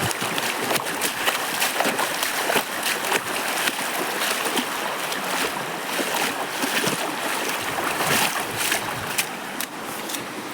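Steady rush of water with frequent short, irregular splashes and knocks.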